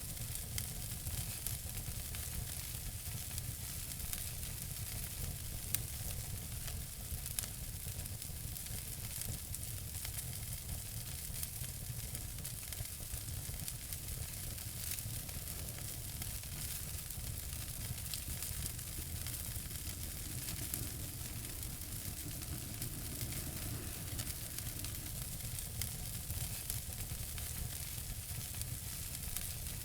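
Wood fire burning in a fireplace: a steady hiss with frequent small crackles and a few sharper pops.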